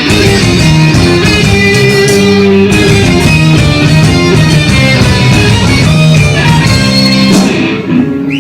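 Rock band playing an instrumental outro, with electric guitar strumming over bass and drums, fading out near the end.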